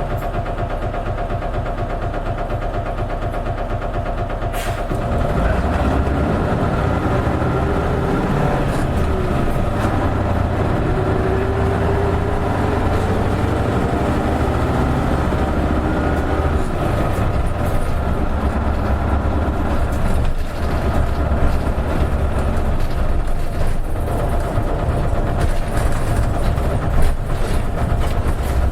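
Isuzu Erga KL-LV280N1 city bus's diesel engine, heard from inside the bus. It runs steadily, then about five seconds in grows louder and deeper as the bus accelerates away, with the engine note rising and falling as it pulls.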